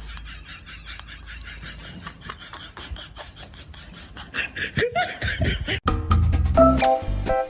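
Quick, repeated laughter, then about six seconds in an abrupt switch to upbeat music with a steady beat and repeated pitched notes.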